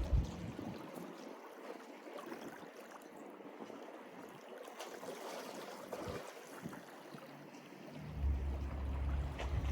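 Mediterranean sea waves washing and lapping at the shore, a steady rushing hiss. Wind buffets the microphone with a low rumble at the very start and again from about eight seconds in.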